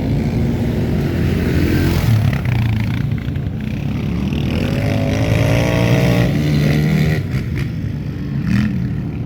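Several off-road racing engines running and revving as they pass, their notes overlapping, with one climbing in pitch about five seconds in.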